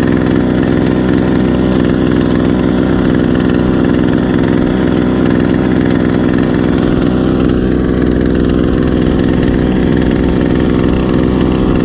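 Small 2 hp outboard motor running steadily at trolling speed, a loud, even engine drone.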